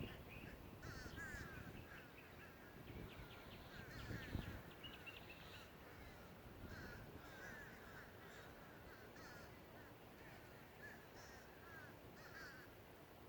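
Crows cawing repeatedly in short calls, faint and fairly distant, with a brief low rumble about four seconds in.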